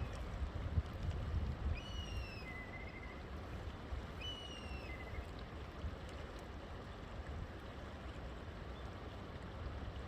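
River water flowing steadily, with a low rushing rumble. A bird calls twice, at about two and four and a half seconds in, each a short whistled note falling in pitch.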